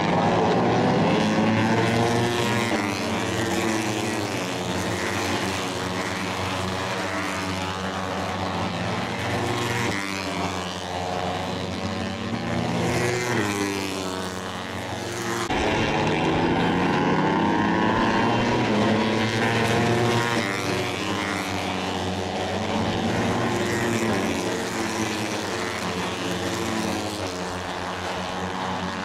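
Several Moto3 race bikes' 250 cc single-cylinder four-stroke engines running at high revs, their pitch rising and falling repeatedly through gear changes as they pass, overlapping one another. The sound changes abruptly about halfway through.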